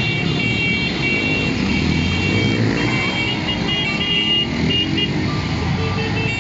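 Engines of a motorcycle caravan running in traffic, with horns sounding in short, repeated blasts.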